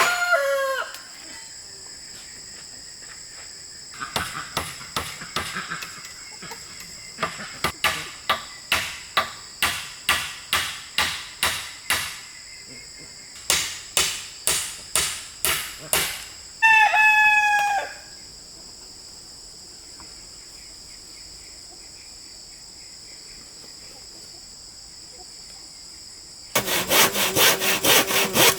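Hammer blows on wood in two runs of about two strikes a second, over a steady high drone. A rooster crows once about 17 seconds in. Near the end, hand-sawing of wood starts with quick, even strokes.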